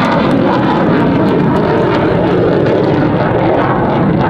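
F-15 Eagle fighter jet's twin jet engines, a steady loud roar as the jet flies past overhead.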